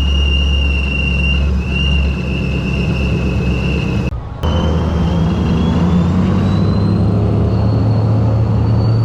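Supercharged Ford Mustang Mach 1 with a 4.6 L DOHC V8 and a belt-driven Procharger centrifugal supercharger, under way: a high, steady supercharger whine over the engine's low drone. The sound cuts out briefly about four seconds in, then the whine climbs slowly in pitch as the revs rise.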